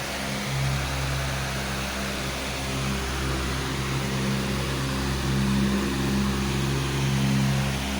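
Powerful electric fan running steadily: an even rush of air over a low motor hum.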